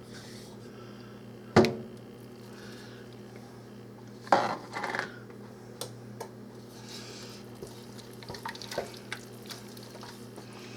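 Spoon stirring in a pot of thick soup, knocking and scraping against the pot: a sharp knock about one and a half seconds in, a cluster of clatter around four to five seconds in, and lighter taps after.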